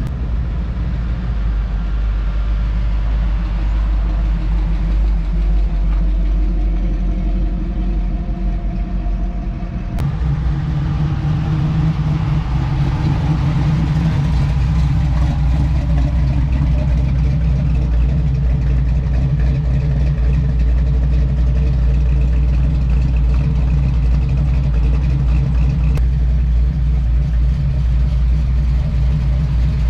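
Classic cars' engines running at low speed as they pull out of a car park, a deep steady rumble. The sound changes abruptly about ten seconds in and again near the end as one car gives way to another.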